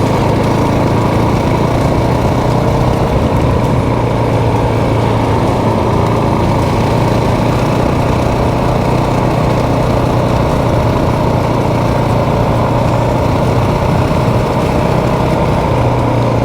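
Motorcycle engine running steadily while riding, with a constant low hum and road and wind noise.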